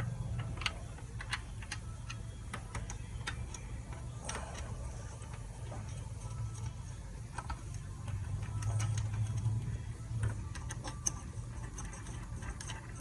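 Ratchet wrench clicking in short, irregular runs as intake manifold bolts are tightened in sequence, over a steady low hum.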